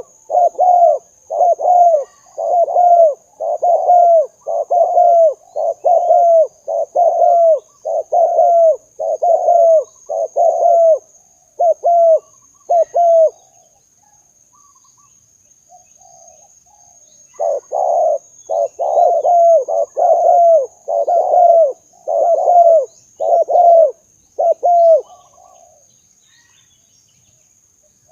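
Spotted dove (tekukur) cooing: a long run of short, loud coos, each bending down in pitch, a little over one a second. The calls break off for a few seconds about halfway, then resume for a while. A faint steady high-pitched hiss runs underneath.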